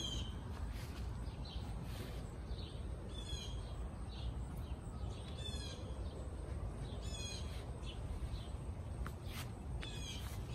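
Songbirds singing outdoors: a short phrase of quick high notes repeats about every two seconds, with fainter chirps between, over a low steady rumble.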